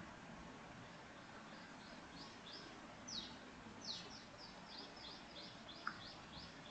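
Faint bird song: a quick run of high, downward-sweeping chirps, about three a second, from about two seconds in until near the end, over quiet room tone. Two short blips, one at the very start and one near the end.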